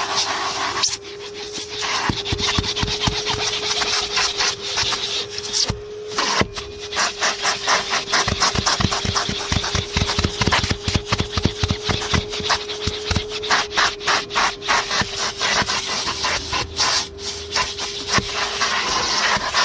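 Numatic Henry HVR200-22 vacuum cleaner running with a steady motor whine, its nozzle rubbing, scraping and knocking rapidly and irregularly over the car's interior.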